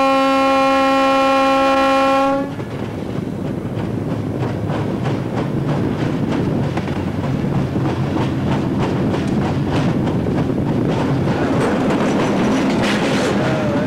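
GT22 diesel locomotive's horn sounding a long, steady blast that cuts off about two seconds in. Then the train runs along the track, its engine running underneath and the wheels clicking over the rail joints.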